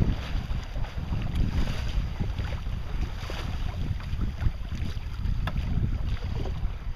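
Wind buffeting the microphone on a sailboat under way, a steady rumbling rush that rises and falls in gusts, with water washing against the hull.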